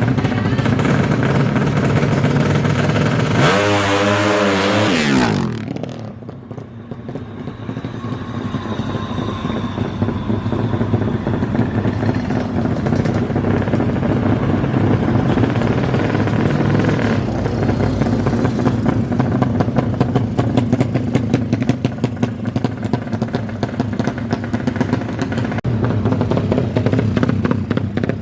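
DOHC drag-race motorcycle engines running hard at high revs. One bike sweeps past about four to five seconds in, its pitch falling as it goes, and then the sound drops away. After that, a mix of engine noise builds back up and carries on.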